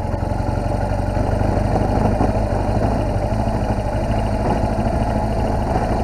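BMW R1200GS motorcycle's flat-twin engine running steadily at low speed as the bike rides along.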